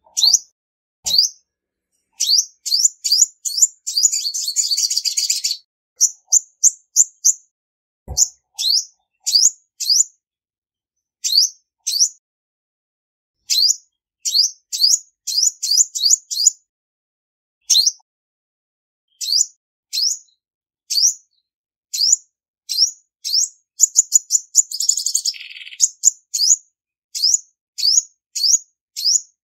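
Female olive-backed sunbird calling: a long series of short, high, sharp chirps, often in quick runs of three to six, with a longer buzzy trill about four seconds in and another about three-quarters of the way through.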